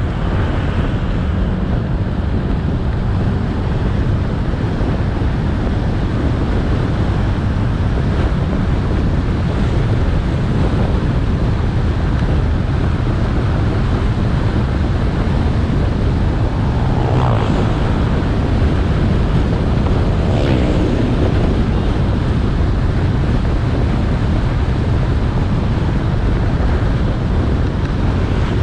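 Motorcycle engine running at riding speed under a steady rush of wind on the microphone, with road and traffic noise. About 17 and 20 seconds in, two brief pitched notes rise and fall.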